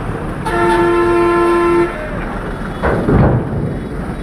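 A vehicle horn sounds once, holding one steady tone for about a second and a half, over a continuous din of vehicle engines.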